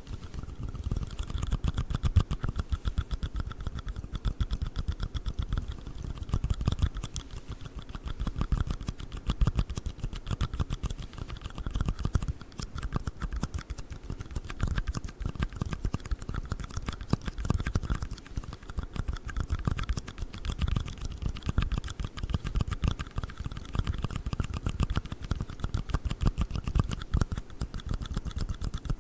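Rapid, continuous tapping and clicking on a black ring box, fingernails working quickly over its surface.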